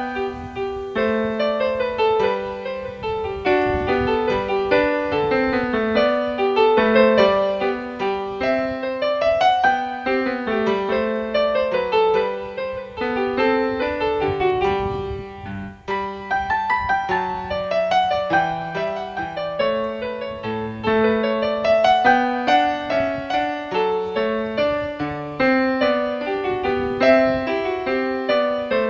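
Background piano music: a gentle piece of flowing, arpeggiated notes, with a brief pause about halfway through.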